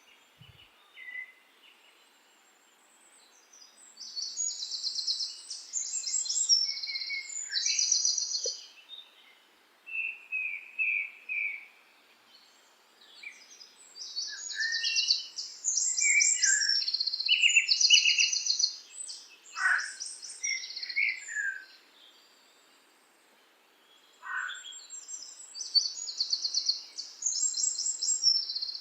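Songbirds singing: phrases of rapid, high trilled chirps a few seconds long, with short pauses between them and a couple of downward-sweeping whistles.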